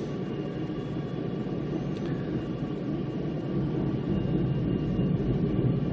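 Passenger train running along the track, heard from inside a carriage: a steady low rumble of wheels on rail that grows slightly louder toward the end.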